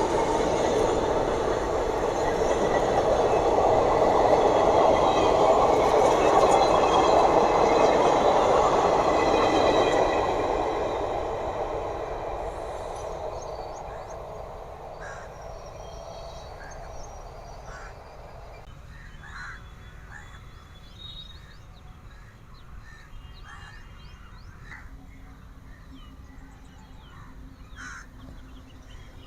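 A train running past on the rails, its loud rumble of wheels fading away over about ten seconds as it recedes. Quieter station ambience follows, with scattered short chirps and clicks.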